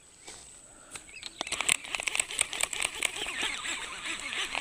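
Baitcasting reel being worked, with rapid, uneven clicking and rattling that starts about a second in.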